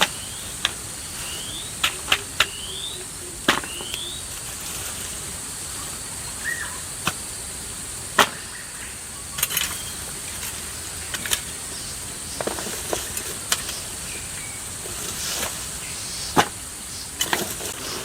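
Irregular sharp knocks or taps, about fifteen of them at uneven intervals, over a steady high insect-like whine, with a few short rising high-pitched chirps in the first four seconds.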